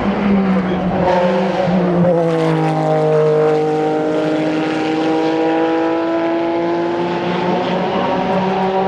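GT race car engine running hard past the track, its note dropping as it goes by about two seconds in, then holding and slowly rising as the car pulls away.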